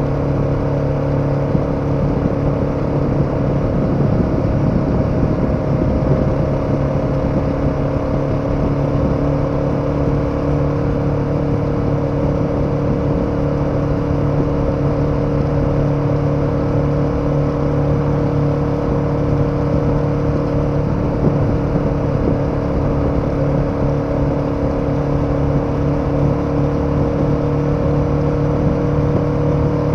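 KTM 1290 Super Adventure's V-twin engine running steadily at a constant cruise, its pitch rising slightly near the end.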